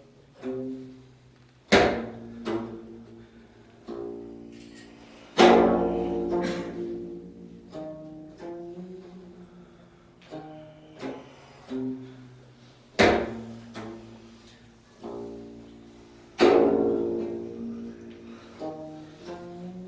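Slow, sparse Korean long-zither music: single plucked notes and low chords, each ringing out and dying away. Four hard-struck notes stand out, at irregular intervals of a few seconds.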